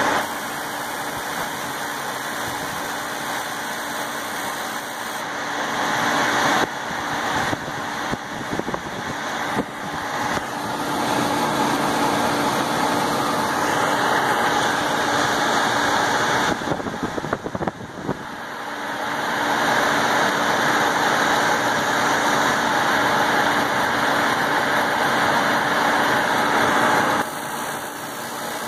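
Rooftop gas heating unit's motors (inducer/fan) running with a steady hum. It grows louder for stretches, about five seconds in and again from about eighteen seconds, then drops back near the end.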